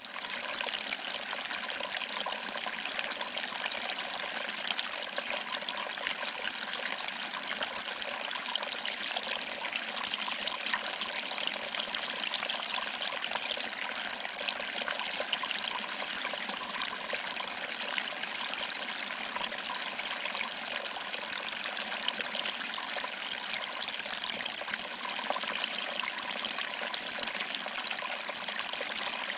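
Small waterfall: water trickling over rocks and splashing into a shallow pool, a steady, even hiss and splash with almost no low rumble.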